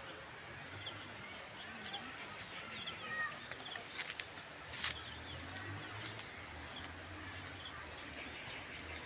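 Outdoor ambience: a few birds chirping in short calls over a steady high-pitched hiss. A couple of sharp clicks sound around the middle, and a faint low hum comes in about halfway through.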